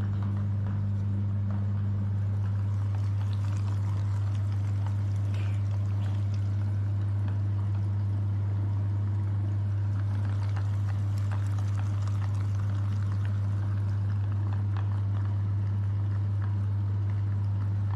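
Electric meat grinder running steadily, its motor giving a strong, even low hum, with faint wet crackling from the food being forced through.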